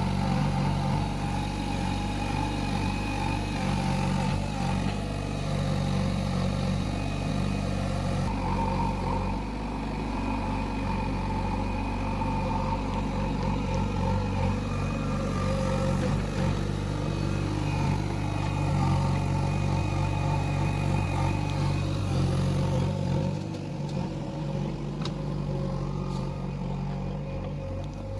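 Backhoe loader's diesel engine running steadily while working, its note shifting a little a few times.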